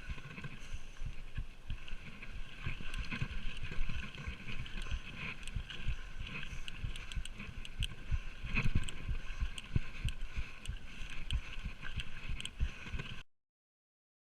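Orange Five 26-inch full-suspension mountain bike riding a rough dirt trail: tyre roar with frequent thumps over bumps, many small clicks and rattles, and wind buffeting the microphone. It cuts off suddenly near the end.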